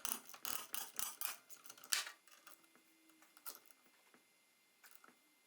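Hand tools clicking and tapping against metal on a car's rear drum brake assembly: a quick, uneven run of sharp clicks over the first two seconds, the loudest about two seconds in, then a few scattered ticks.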